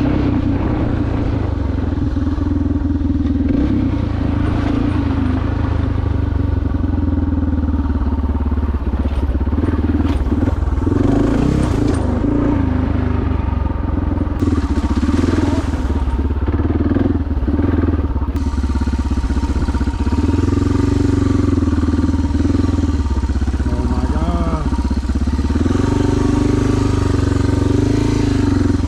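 2001 Suzuki DR650SE's single-cylinder engine, breathing through a SuperTrapp exhaust, running steadily under way on the trail. Its pitch shifts up and down a few times as the throttle changes.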